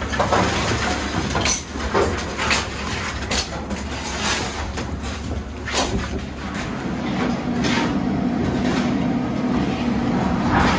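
Heavy machine engine, most likely the skid loader's, running steadily with a low rumble, under scattered knocks and clatter of demolition debris being handled.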